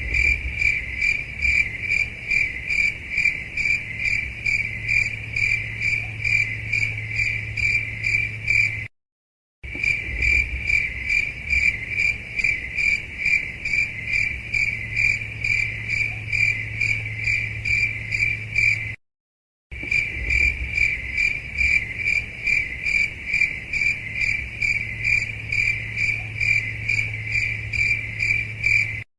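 Insect chirping in a steady, even pulse of several chirps a second over a low hum. It cuts out briefly twice, about nine and nineteen seconds in, and resumes unchanged, as a looped recording would.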